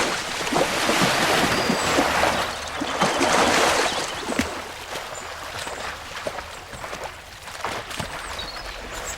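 Water splashing and sloshing, as of someone moving through water, loudest in the first four seconds and then fainter.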